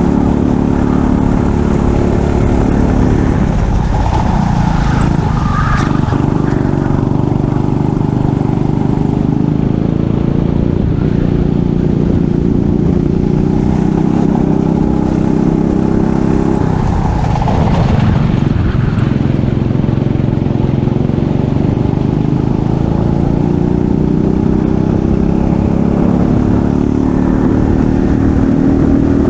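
Racing kart engine running hard under acceleration. Its pitch drops twice, about three to four seconds in and again around seventeen seconds, as the kart slows for corners, then climbs steadily as it accelerates away.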